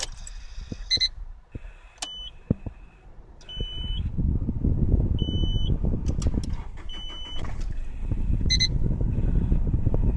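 Car engine and road noise rising as the car moves off about three and a half seconds in, after a stretch of regular ticking, about two a second, and several short high electronic beeps.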